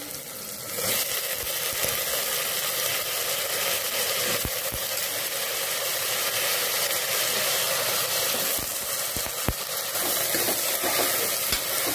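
Chopped brinjal and drumstick pieces sizzling as they fry in hot sesame oil in a pressure cooker, a steady frying hiss that grows louder about a second in. A few soft knocks come through as the pieces are stirred with a spoon.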